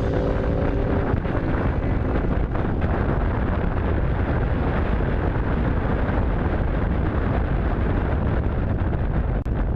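Steady rush of wind on the microphone of a motorcycle riding along the road, a dense, even rumble with the bike's running noise buried in it.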